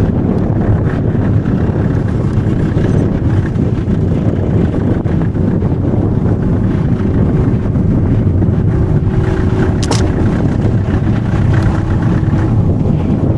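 Steady, loud rumble of a steam train in motion, with a single sharp click near the end.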